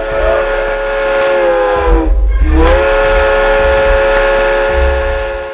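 Steam locomotive whistle blowing a chord of several notes. It sags down in pitch about two seconds in, rises back, and holds steady until it cuts off. A deep bass thump pulses underneath.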